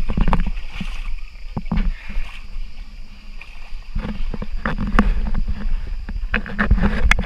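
Tour boat under way: a steady low rumble of the boat's engine and water, broken by irregular knocks and thuds.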